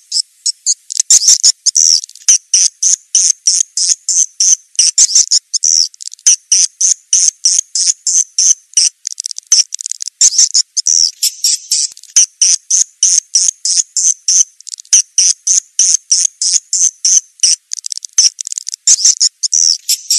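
Swiftlet calls: a steady stream of rapid, high-pitched chirps, about four a second. This is a 'suara tarik' lure call, played to draw swiftlets into a nesting house.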